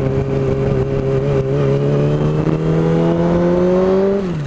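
Motorcycle with a newly fitted aftermarket exhaust running at a steady cruising speed, its pitch creeping slowly up, then dropping away near the end as the throttle is closed.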